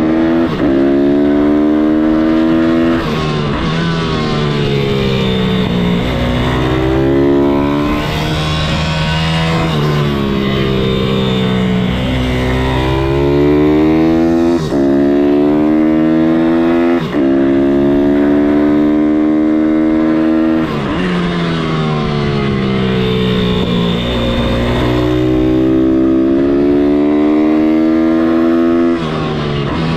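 MRF 160-R SM pitbike's single-cylinder four-stroke engine being ridden hard. It revs up again and again, with sudden drops in pitch at the gear changes, and the revs slide down as it slows for turns.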